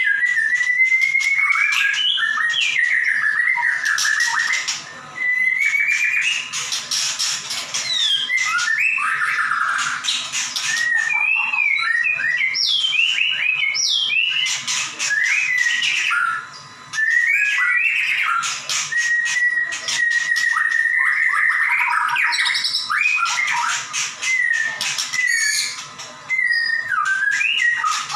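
White-rumped shama singing loudly and almost without a break. The song is a run of clear whistles, quick up-and-down phrases and fast, high, rattling trills. This is the bird in full song.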